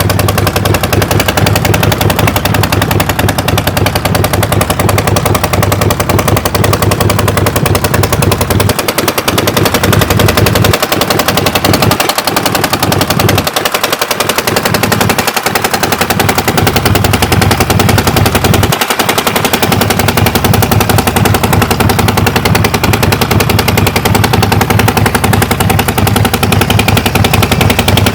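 Harley-Davidson XL1200 Nightster's air-cooled 1200 cc V-twin engine running, a loud, fast, steady train of exhaust pulses.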